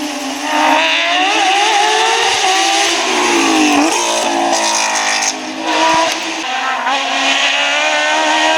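Rally car engine revving hard through the gears, its pitch climbing, dropping sharply about four seconds in and then climbing again.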